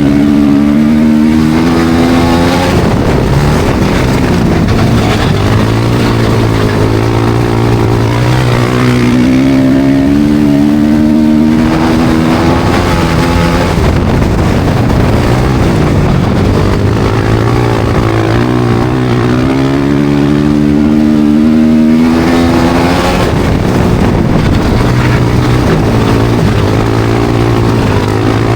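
Studded ice-racing motorcycle engine at race speed, the pitch climbing as the throttle opens and dropping back as it eases off, in repeating surges about every ten seconds.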